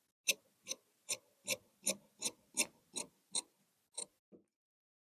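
Tailor's shears snipping through cloth, a steady run of about eleven sharp snips, roughly two and a half a second, that stops shortly before the end.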